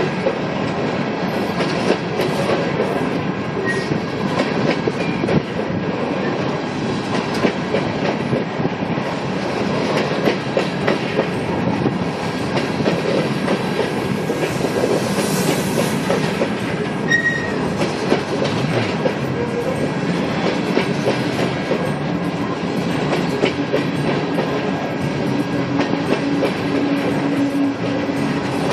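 Norfolk Southern coal train cars rolling past steadily, wheels clicking over the rail joints, with a couple of brief wheel squeals. A low steady hum comes in near the end.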